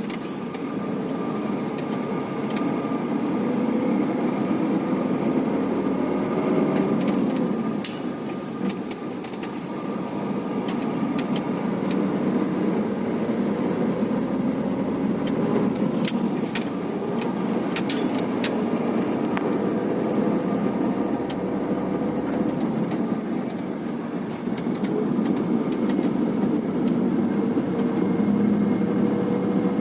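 Heavy truck's engine running, heard from inside the cab, with a steady rumble whose engine note slowly rises and falls.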